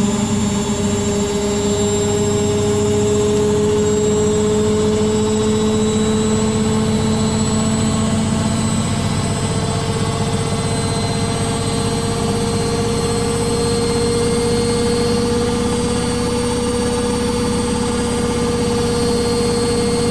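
Beko WTG620M1 washing machine spinning: a steady motor whine over a low drum rumble, its pitch rising slowly as the drum speeds up.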